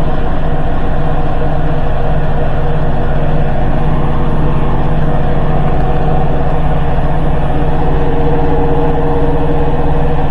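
Hoover H-Wash 300 Plus front-loading washing machine in a fast spin: a steady, loud mechanical drone with a strong low hum.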